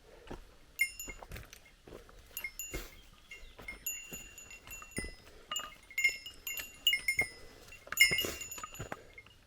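A small metal bear bell jingling irregularly, a few rings a second, as a hiker walks, with faint footfalls on the trail.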